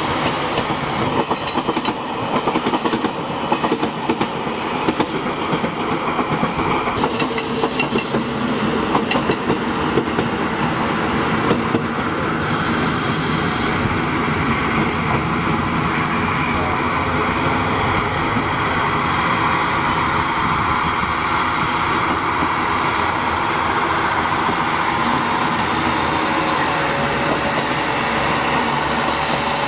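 A passing express's wheels click over the rail joints as it draws away for the first several seconds. From about halfway through, a two-car JR Hokkaido KiHa 40 diesel railcar approaches and passes close by, its diesel engines running under a steady rumble of wheels on rail.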